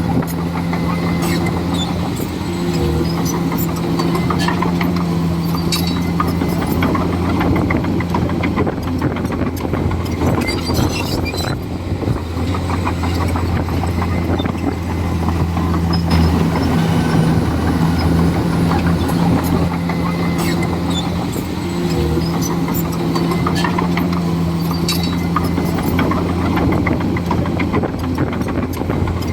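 Komatsu D41E bulldozer's diesel engine running steadily under work, with scattered clicks and clanks over it. A higher engine note joins for a few seconds twice, a few seconds in and again about two-thirds of the way through.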